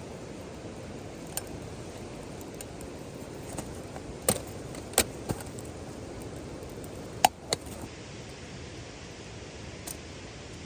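Steady rain hiss with a handful of sharp, separate clicks and pops, the loudest a little past the middle.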